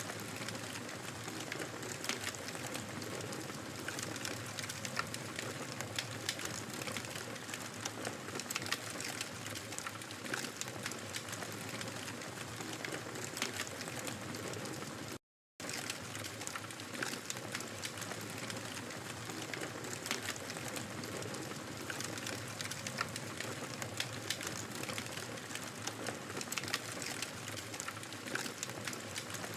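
Wood fire crackling in a fireplace: a steady hiss of burning with frequent sharp pops and snaps scattered throughout. The sound drops out completely for a split second about halfway through.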